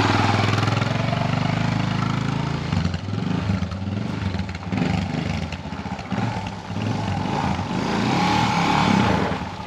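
Motorcycle engine running and revving as the bike is ridden to test a just-adjusted worn clutch; the bike also has a blown head gasket. The engine is loudest for the first few seconds and again near the end.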